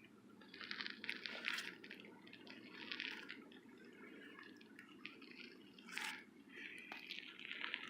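Hands scraping and pulling at damp dirt and sand, in several short rustling bursts over a faint steady hiss.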